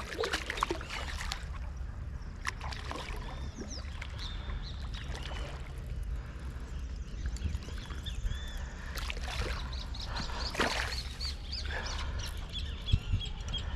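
Birds chirping repeatedly over a steady low rumble, with scattered splashes and knocks as a hooked dourado is fought and brought in at the water's edge.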